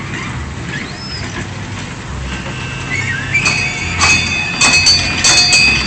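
Small ride train running with a steady low rumble. About halfway through, a high steady ringing begins, joined by rapid repeated strikes like a bell being rung.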